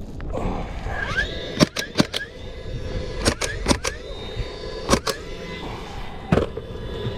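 Sharp knocks in quick groups of two or three, over a low rumbling background with a faint steady whine.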